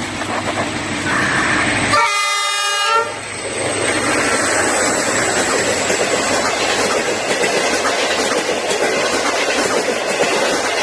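A train sounds one horn blast of about a second, about two seconds in. It then rolls through with a steady rush of wheel and rail noise, clickety-clack included.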